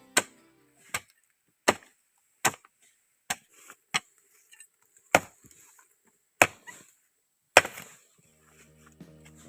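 Chopping with a blade: about nine sharp, separate strikes, at first a little under one a second, then more widely spaced.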